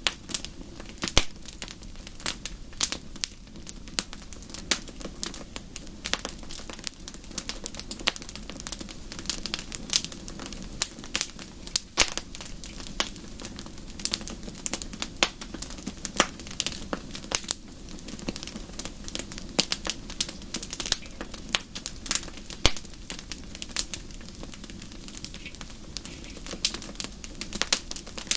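Fireplace fire crackling, with frequent irregular sharp pops over a steady low rush.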